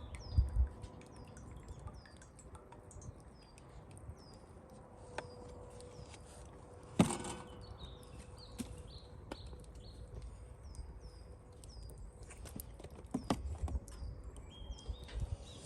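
A small bird chirping over and over in short, high, falling notes. A sharp knock comes about seven seconds in, and there are low thumps near the start and toward the end.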